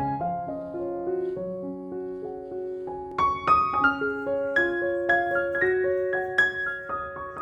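Background piano music: a slow, gentle melody of single struck notes over held lower notes.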